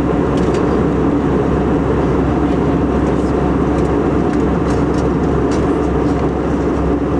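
Steady jet airliner cabin noise heard from a passenger seat: the low drone of the engines and the rush of air past the fuselage, with a few faint ticks.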